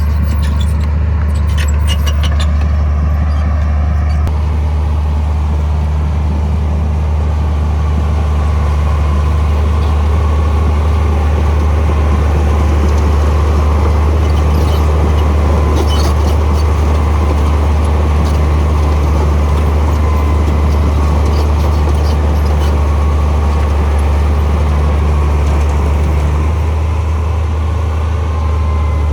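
Heavy earthmoving machinery running with a steady, loud diesel engine hum, with a few short metallic clanks now and then.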